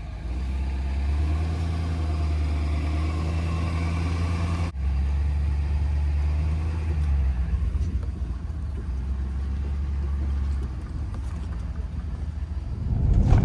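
Vehicle engine running with a steady low hum. The sound breaks off sharply about five seconds in, then resumes, and the hum drops away near the end.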